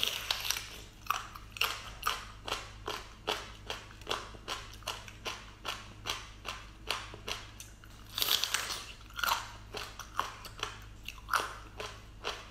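Close-up chewing of a glossy, translucent piece of seafood in chili sauce: short mouth clicks about twice a second, with a louder run of bites around eight seconds in.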